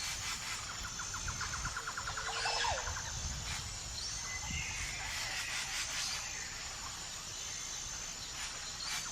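Faint outdoor nature ambience with birds calling: a quick trilled run of repeated notes in the first few seconds, then a few short chirps and whistles over a soft background hiss.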